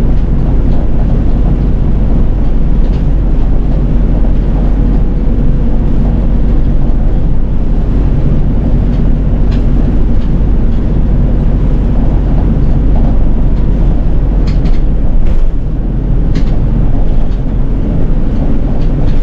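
City bus running, heard from inside the cabin: a loud, steady, low engine and road rumble. A few short clicks and rattles come in the second half.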